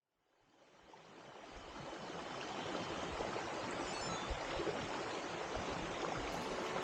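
Mountain stream water rushing, fading in from silence over the first couple of seconds and then running steadily.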